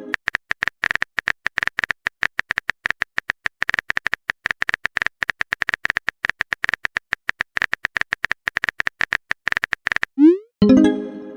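Typing sound effect: a rapid, irregular run of short clicks, as of a phone keyboard in a chat. Near the end the clicks stop for a short rising glide and a ringing chime that fades, a message-sent notification sound.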